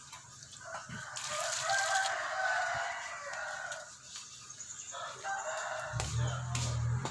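A rooster crowing: one long crow lasting about four seconds. Near the end a low, steady hum starts.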